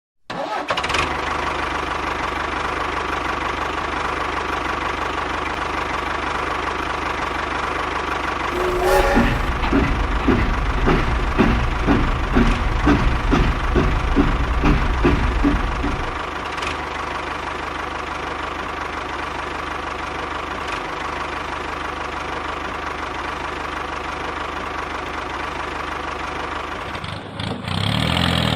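A motor running steadily with a steady whine. Partway through, for about seven seconds, it takes on a rhythmic knocking chug about twice a second, then settles back to steady running.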